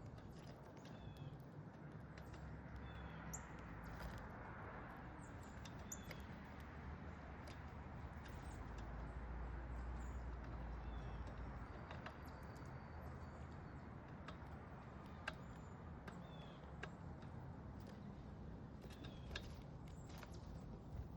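Small backyard songbirds giving scattered short chirps and call notes, with a few sharp clicks, over a steady low rumble.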